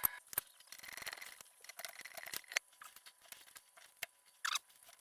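Hand cutting of a small protective cable sleeve: scattered sharp clicks and short scrapes as the tool works through it, with a louder scrape about four and a half seconds in.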